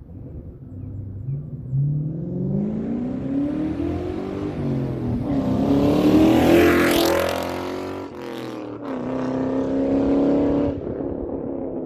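2003 Ford Mustang Mach 1's 4.6-litre V8 through a Carven aftermarket exhaust, revving: the engine note climbs and falls back several times. It is loudest about six to seven seconds in, breaks off sharply about eight seconds in, climbs again and drops suddenly to a lower steady note near the end.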